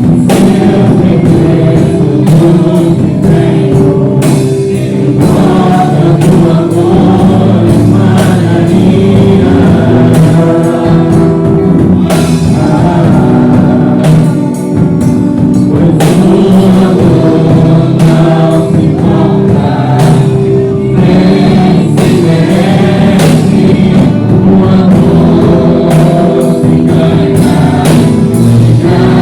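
Church praise team singing a slow gospel worship song in Portuguese, with several voices over a band with a steady drum beat.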